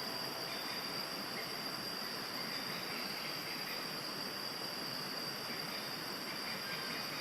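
Steady rushing of waterfall water, with a continuous high-pitched insect drone held on one pitch above it.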